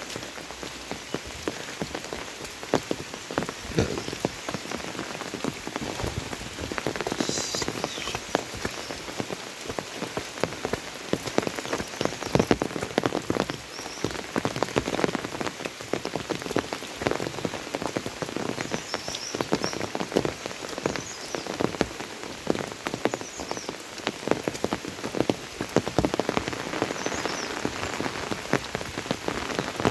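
Monsoon rain falling steadily, a dense, irregular patter of drops hitting surfaces, with a few faint high chirps now and then.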